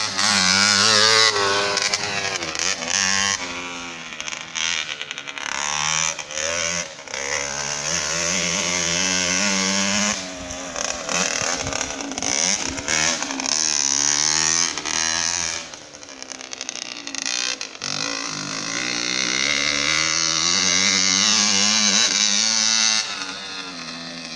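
Motocross bike engine being ridden hard, its pitch climbing under throttle and falling as the rider backs off, over and over. It drops away briefly three times, and is quieter near the end.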